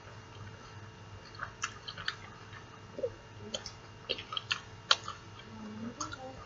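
Close mouth sounds of a person chewing a bite of cheeseburger: irregular wet clicks and smacks, the sharpest one about five seconds in.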